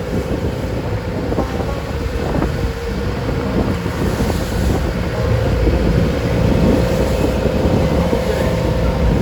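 Engine of a traditional wooden passenger boat running steadily under way at sea, with a constant drone, the rush of water and wind buffeting the microphone.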